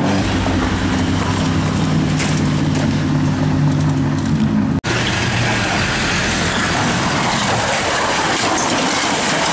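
Banger racing cars' engines running at a steady, unchanging note. About five seconds in the sound cuts off abruptly and is replaced by a steady rough rushing noise with no clear engine note.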